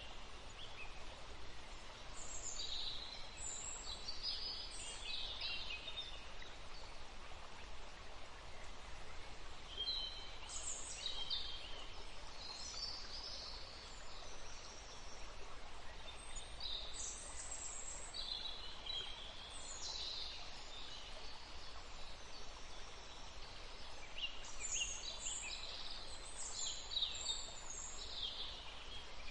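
Songbirds singing in short bursts of high, quickly varying phrases, coming in several clusters, over the steady rush of a forest stream.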